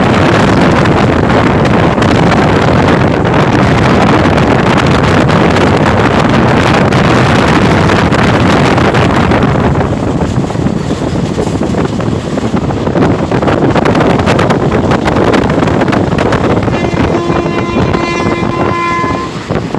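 Express train running at high speed, heard from the train: loud, steady wind rush with wheel and rail noise. The hiss eases about halfway through. Near the end the WAP-4 electric locomotive's horn sounds one steady blast of about two seconds.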